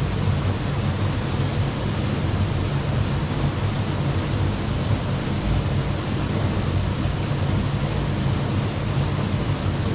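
Waterfall: the steady rush of falling water, constant with no breaks.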